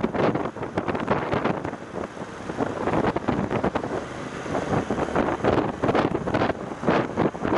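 Wind buffeting an action camera's microphone on a moving motorcycle: a loud, gusting rush that eases a little in the middle and swells again near the end.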